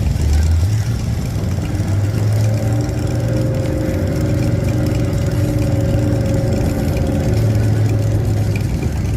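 Monster truck's Chevrolet V8 engine idling with a steady low rumble; a fainter, higher steady hum joins about two seconds in.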